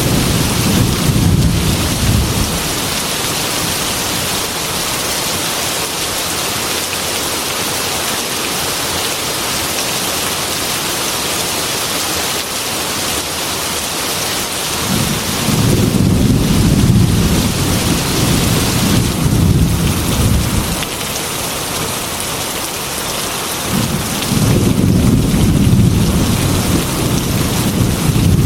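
Heavy rain pouring steadily, with rolls of thunder. One rumble sounds at the start, a longer one about fifteen to twenty-one seconds in, and another near the end.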